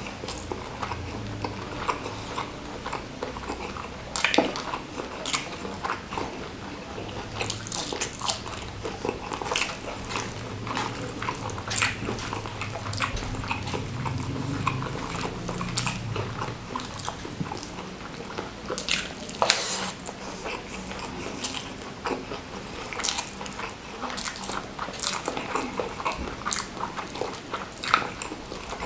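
A person chewing and biting into mouthfuls of spicy salted-squid sambal with rice, close to the microphone, with irregular crunchy clicks of chewing.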